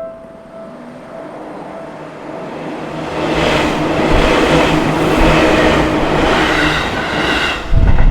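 Seibu Sayama Line train passing through a level crossing. Its rumble and wheel clatter build about three seconds in and run loud for several seconds over the crossing's repeating warning bell. A sudden loud low rumble comes near the end.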